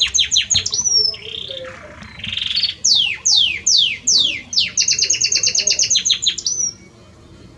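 Belgian canary singing a varied song. A fast trill of repeated notes, a rolled buzzy phrase, then five slow, steeply falling whistles at about two a second, then another rapid trill ending on a slurred note; the song stops about seven seconds in.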